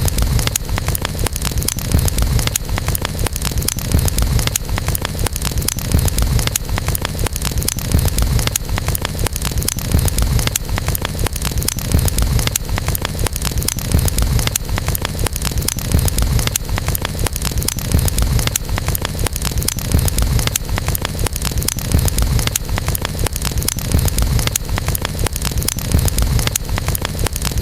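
Wood campfire burning, with dense, continuous crackling and popping over a steady low rumble.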